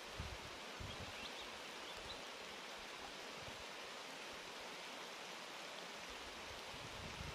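Steady rain falling on tea bushes, an even hiss.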